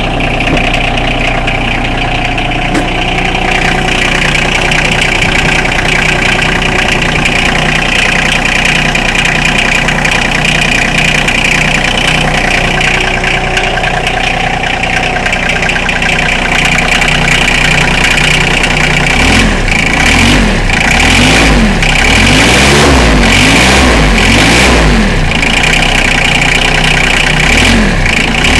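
John Deere 2305's Yanmar three-cylinder diesel running just after a cold start in freezing weather with no block heater, idling steadily at first. About two-thirds of the way in its pitch begins rising and falling over and over.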